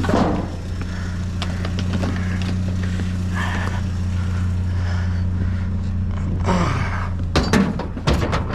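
Vehicle engine idling steadily, with scattered knocks and clatter of loose scrap being handled, a cluster of them near the end.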